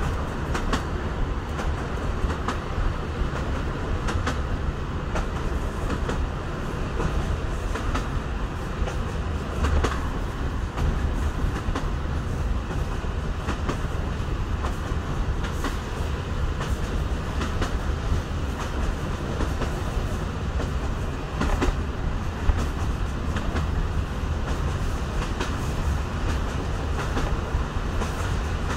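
Running noise heard from inside the passenger compartment of a moving EN57 electric multiple unit: a steady low rumble with irregular clicks and knocks of the wheels passing over rail joints.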